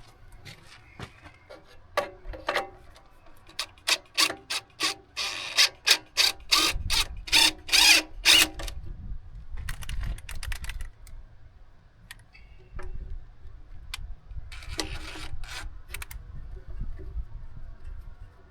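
Hand ratchet wrench clicking in quick runs of strokes as nuts are loosened, with the longest and loudest run about halfway through and two shorter runs later.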